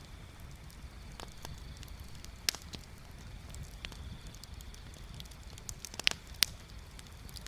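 Wood bonfire crackling: irregular sharp pops and snaps over a low steady rumble. The loudest pop comes about two and a half seconds in, and two more come close together about six seconds in.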